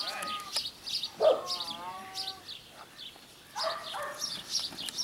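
Small birds chirping over and over, with a drawn-out wavering call about a second in and another beginning near the end.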